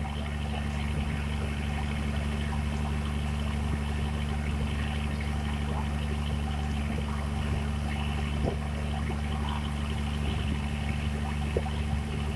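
Boat engine running at a steady speed, a constant low drone, with water noise from the hull underneath.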